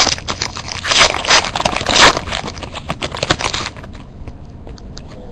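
Trading cards being handled and flipped through, sliding and scraping against each other with a dense rustle for about three and a half seconds, then quieter handling.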